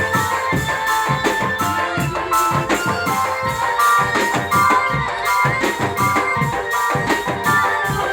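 Music played on drums and tuned metal percussion: a fast, steady drum beat of about three to four strokes a second under held ringing tones.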